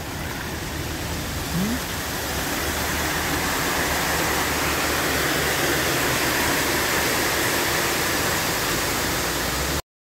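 Steady, loud rushing noise, growing a little louder about two seconds in, then cutting off abruptly near the end.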